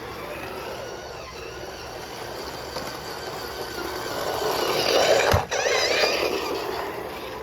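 Radio-controlled cars' electric motors whining as they drive, the sound swelling to its loudest about five seconds in, with rising whines and a single sharp knock just after.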